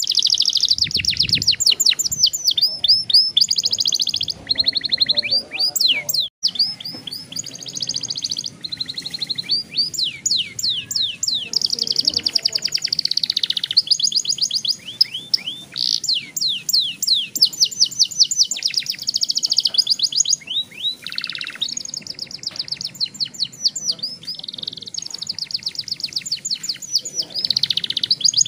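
Young domestic canary singing a long, continuous song of rolling trills: phrases of fast repeated high notes running one into the next with barely a pause, broken only by a brief dropout about six seconds in.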